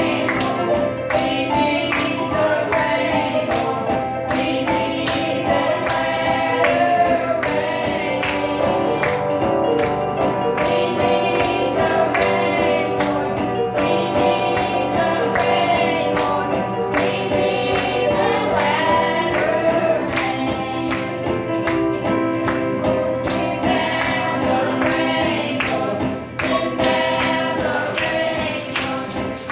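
Children's choir singing a gospel song with instrumental accompaniment and a steady percussive beat.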